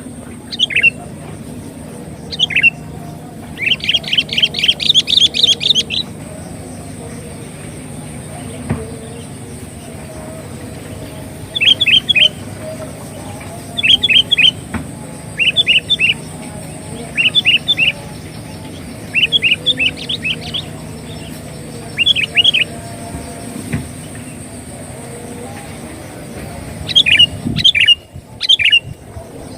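Sooty-headed bulbul (kutilang) calling: short bursts of three or four quick, falling whistled notes repeated every couple of seconds, with a longer, fast run of notes about four seconds in. This is the bulbul call used as a lure (pikat) for trapping the bird.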